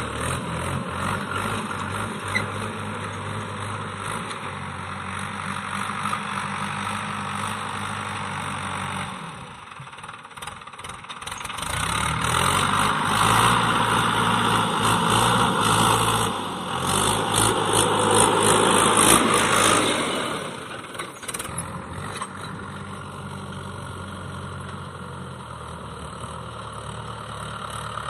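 Mahindra tractor's diesel engine running steadily while ploughing. It drops away briefly about a third of the way in, then runs louder for several seconds before settling back to a steady, quieter run.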